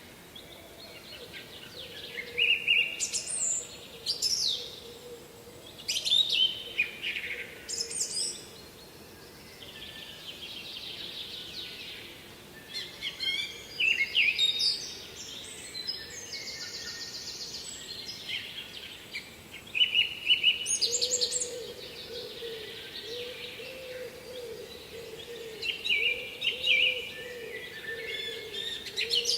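Birds singing: a series of short, sharp song phrases every few seconds, with a faint low wavering sound underneath in the second half.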